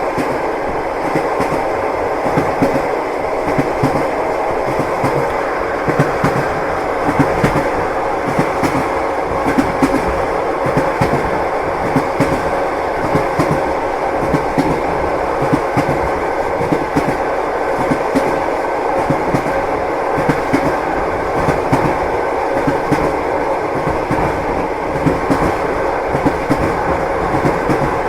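Train wheels clattering over the rail joints as the train runs steadily along, over a continuous rumble.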